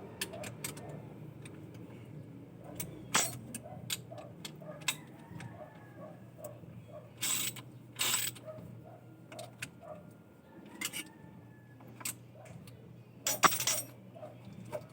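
Scattered sharp metallic clicks and clanks of mechanical work, with a few louder rattling bursts, over a steady low hum.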